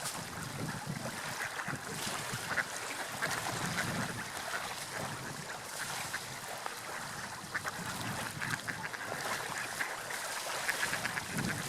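Water lapping and splashing in waves, a steady wash with rolling low swells and many small crackling splashes.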